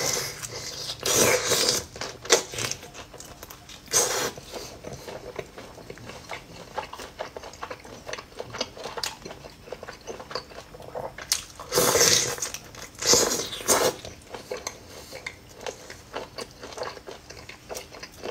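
Close-miked chewing and crunching of whole cooked prawns, with many small clicks and crackles. Louder bursts of crunching come about a second in, around four seconds in, and again at about twelve to fourteen seconds.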